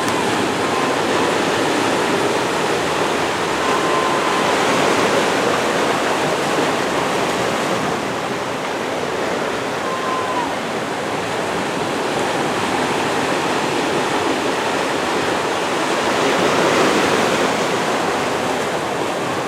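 Steady rushing of open water and wind, even and unbroken, with a few faint, brief whistle-like tones near the start and about halfway through.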